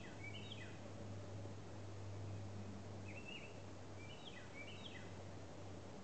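A songbird singing in the background: quick phrases of short, high, down-slurred notes, once near the start and again from about three to five seconds in. Under it runs a steady low hum and a soft hiss.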